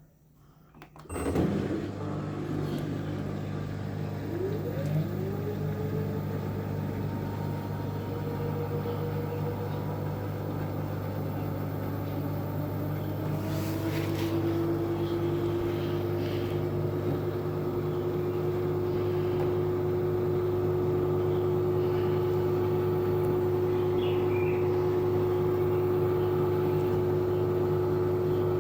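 LG washing machine running in test mode: a motor starts up about a second in with a steady low hum, and a whine rises in pitch over the next dozen seconds, then holds steady as the motor reaches speed.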